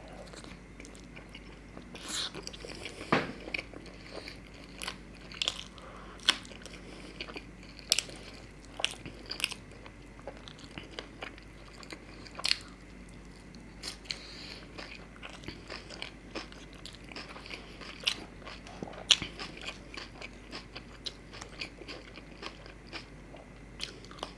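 A man chewing and biting mouthfuls of chicken curry with flatbread, close to the microphone, with irregular crisp crunches and clicks scattered throughout.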